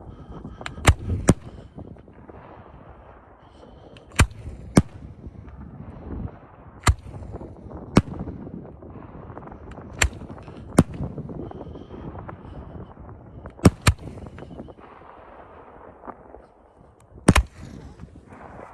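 Fireworks going off: about a dozen sharp bangs, often in quick pairs, every second or few, with a rough crackling wash between them.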